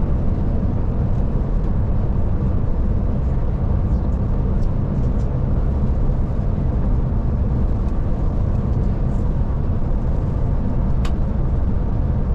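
Scania Touring coach driving at a steady speed, heard inside the cabin: a constant low drone of engine and road noise, with one short click near the end.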